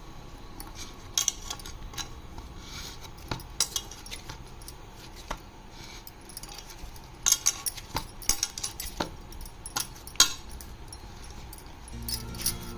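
Metal utensil clinking and scraping against a pan or bowl while ragi flour and hot water are stirred together for roti dough, in scattered sharp clicks that bunch up about two-thirds of the way in. Music comes in near the end.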